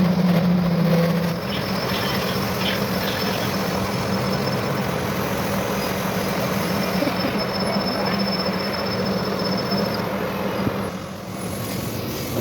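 A machine running steadily with a constant low hum over a noisy rumble.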